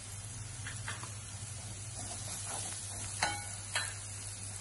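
Chopped onion and garlic sizzling in hot oil in a non-stick kadai, a steady frying hiss, with a few light scrapes and taps of a wooden spatula against the pan.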